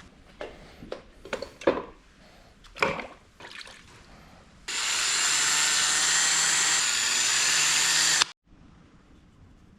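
A few light clicks and knocks of small parts being handled, then a loud, steady spray hiss for about three and a half seconds that starts and stops abruptly, as when cleaning carburettor parts.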